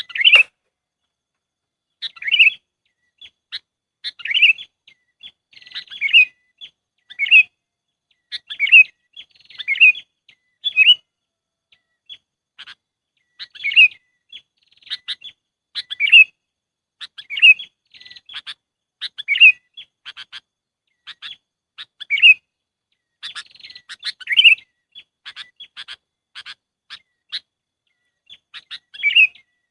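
Sooty-headed bulbul (kutilang) calling: short, bright phrases repeated every one to two seconds, with runs of short, sharp notes between them in the second half.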